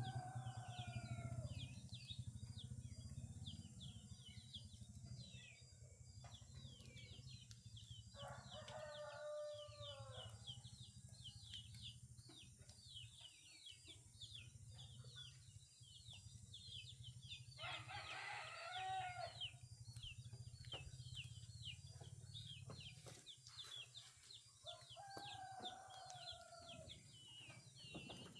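Roosters crowing, four crows about eight seconds apart, over a steady dawn chorus of small songbirds chirping. A faint low rumble runs underneath.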